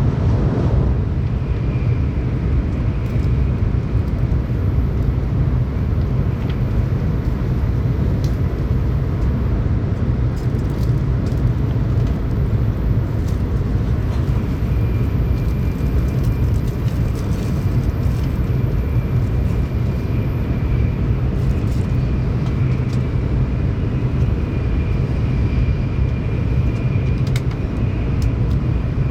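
Tokaido Shinkansen train running at speed, heard inside the passenger car: a steady deep rumble, with a faint high tone coming in about halfway through.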